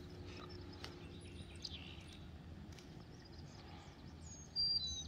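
Small birds chirping: scattered short, high, pitch-sliding notes over a faint steady outdoor hiss, with a louder run of chirps about four and a half seconds in.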